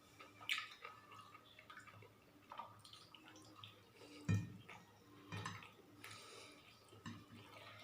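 Faint eating sounds: scattered soft, wet clicks and taps of chewing and handling food, the loudest about four seconds in.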